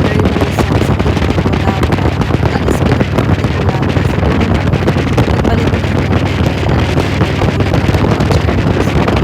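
Wind buffeting the microphone on a moving motorcycle, a loud, steady, rough rush with engine and road noise underneath.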